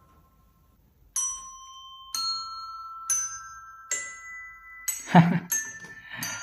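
A run of single struck, bell-like notes at different pitches, like a glockenspiel or chime, each ringing on and fading. The notes begin about a second in, come roughly one a second, and come closer together near the end, where two short noisy bursts fall among them.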